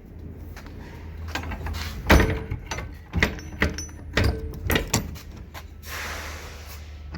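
Metal bangs and clanks of a semi-trailer's rear swing doors and lock bars being closed and latched, five or six knocks with the loudest about two seconds in, over a steady low hum; a short hiss comes near the end.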